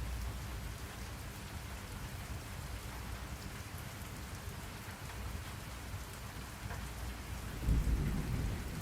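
Steady rain with low rolling thunder underneath; a louder thunder rumble swells up near the end.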